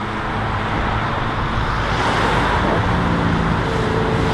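A car engine running amid traffic and road noise, growing steadily louder.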